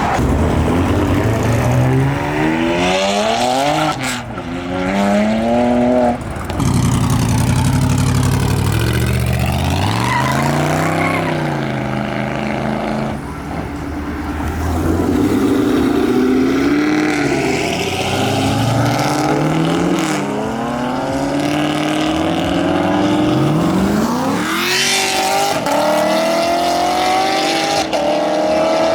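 Several performance cars revving hard and accelerating past one after another, their engine pitch climbing through the revs and dropping away as each goes by.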